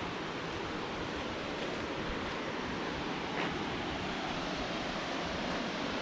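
Steady rushing of flowing water, with one small click about three and a half seconds in.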